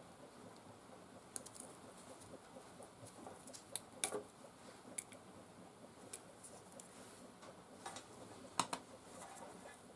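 Scattered light clicks and taps of small scooter parts and tools being handled, over a faint steady hiss; the sharpest clicks come about four seconds in and again near the end.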